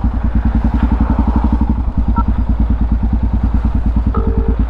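Motorcycle engine idling with an even, pulsing beat. Near the end a phone's ringback tone sounds twice through the helmet headset as an outgoing call rings.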